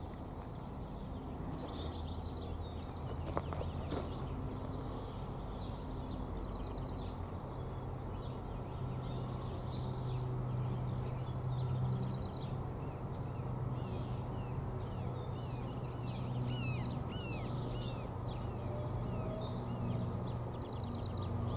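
Small birds chirping and calling again and again, with a run of short falling notes in the second half, over a steady low hum.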